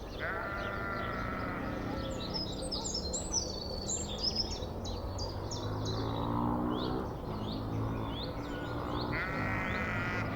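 Two drawn-out animal calls, one at the start and one near the end, each lasting over a second, with a lower, steadier call in between, over continual chirping of small birds.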